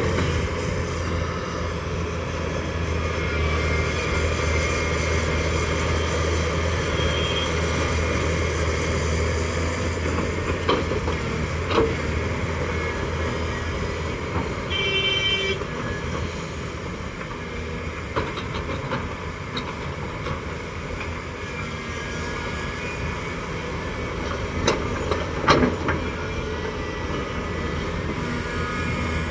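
Volvo excavator's diesel engine running steadily while loading coal, its low hum heavier for the first ten seconds and then easing. A few sharp metal knocks come about 11 and 25 seconds in, and a short horn toot sounds about 15 seconds in.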